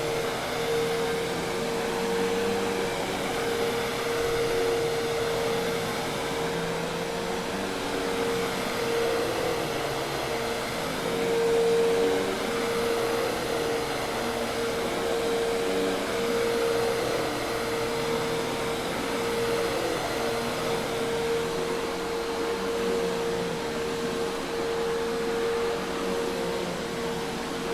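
Hoover Task Vac vacuum cleaner running steadily: a constant high hum over an even rush of air.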